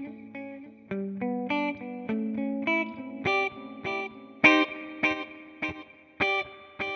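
Electric guitar, a Fender Jazzmaster, played clean through a TC Electronic Flashback delay pedal. A run of single picked notes trails off in echoing repeats, and louder, sharper picked notes come in about two-thirds of the way through.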